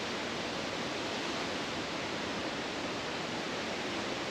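Steady rushing of an artificial cascading waterfall, an even hiss with no breaks.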